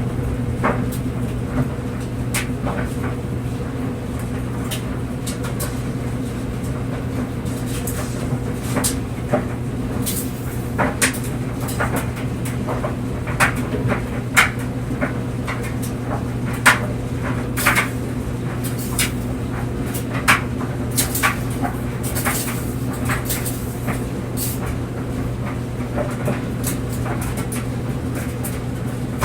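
Clothes dryer running with a steady motor hum while the load tumbles in the drum, giving irregular light knocks and clicks as items drop.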